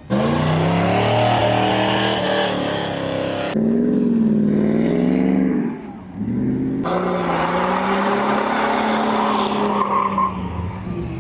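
Car engine running loud and revving, its pitch rising and falling, with a steady hiss over it.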